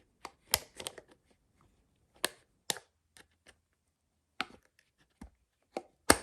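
Plastic parts of a small socket fan light being handled and pushed into place: a series of sharp, irregular clicks and snaps, the loudest near the end.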